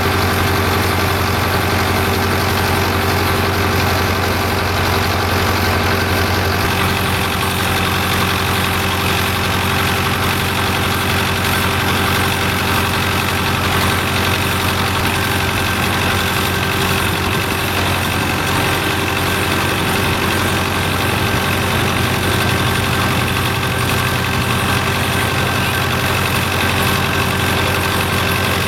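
An engine running steadily at idle, an even drone that holds the same speed throughout.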